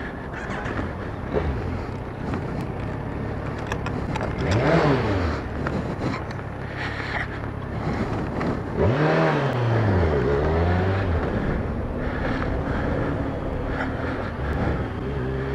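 Road traffic: several cars driving past one after another over steady tyre noise. Each engine note rises and then falls as it goes by, the loudest passes about five and ten seconds in.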